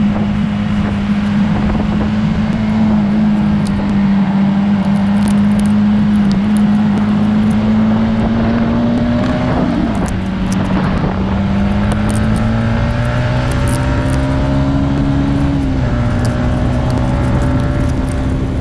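Motorcycle engine running under way, its pitch slowly climbing, dipping about ten seconds in and stepping down again near the end.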